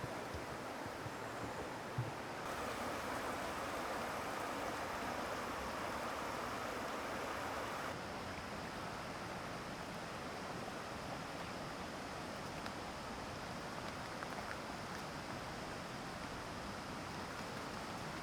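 Steady rush of the Oirase mountain stream's rapids. About eight seconds in the sound changes suddenly to a slightly softer, quieter rush.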